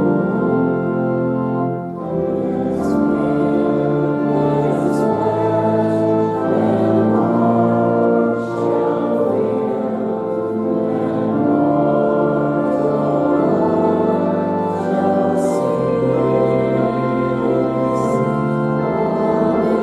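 A hymn sung by several voices to organ accompaniment, in slow held chords that change every second or two.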